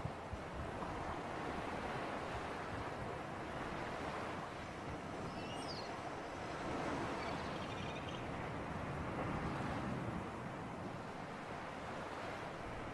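Sea surf and wind, a steady rush that swells gently twice. A few faint high chirps sound about halfway through.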